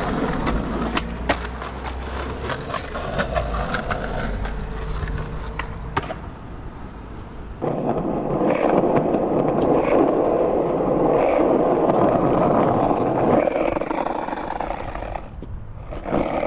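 Skateboard wheels rolling over pavement, with scattered clicks and knocks; the rolling rumble grows louder and rougher about halfway through and eases off near the end.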